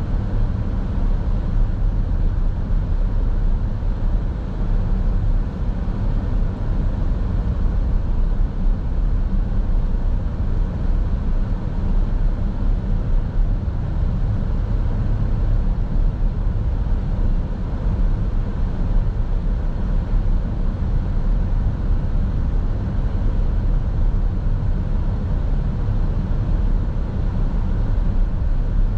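Steady low road and engine noise of a car driving, heard from inside the cabin through a dashboard camera.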